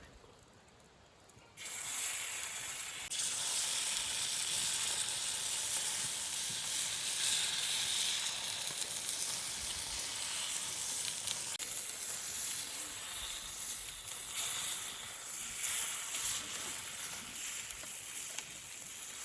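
Takoyaki batter sizzling in a hot takoyaki pan over a campfire, a steady hiss that starts suddenly about a second and a half in.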